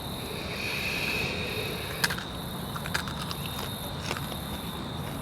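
Insects chirring steadily in the background, a constant high-pitched drone with a pulsing hiss above it. A couple of sharp clicks come about two and three seconds in.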